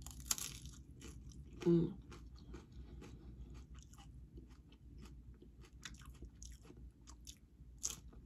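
Close-up eating sounds of tortilla-chip nachos: a crisp bite crunch at the start, then steady chewing with many small crackles of the chips, and another crisp crunch near the end. About two seconds in comes a short hummed 'mm', the loudest moment.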